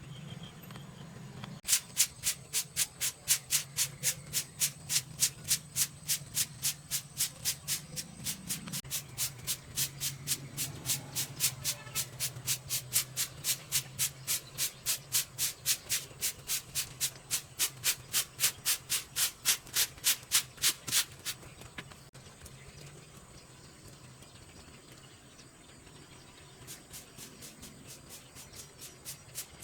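Rapid rhythmic scraping strokes, about three and a half a second, over a low steady hum. They stop suddenly about 21 seconds in and start again more faintly near the end.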